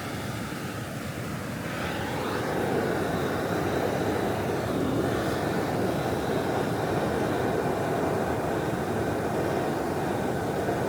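Handheld gas blowtorch running steadily, getting louder about two seconds in, its flame heating dry twigs in a stone stove until the wood catches.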